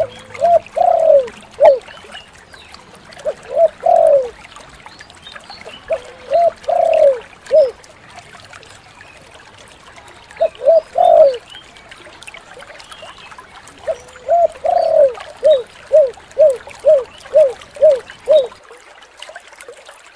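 A spotted dove (tekukur) cooing in five phrases a few seconds apart. Each phrase is a short coo, a longer drawn coo and a short coo. The last phrase runs on into a string of about eight quick coos, roughly two a second.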